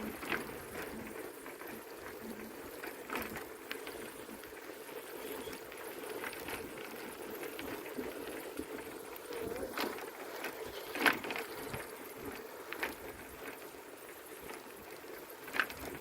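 Bicycle riding along: a steady rolling noise with a few sharp rattles and clicks, the loudest about eleven seconds in.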